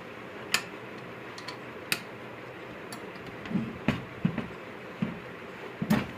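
Irregular sharp metallic clicks and a few dull knocks from tools and parts being handled during work on a turbocharger, over a steady background hiss.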